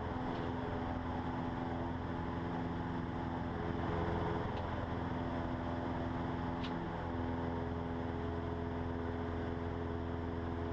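Cessna 150's four-cylinder Continental O-200 engine and propeller droning steadily, heard from inside the cabin during the climb after take-off, with a slight shift in the engine note about midway.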